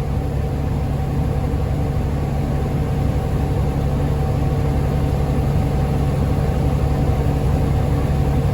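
Tractor pulling a grain cart, its engine running steadily: a constant low hum with a few steady tones above it.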